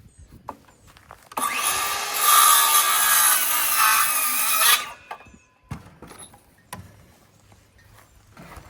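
Electric power saw cutting through a wooden board for about three seconds, its motor whine dipping under load, followed by a couple of sharp knocks.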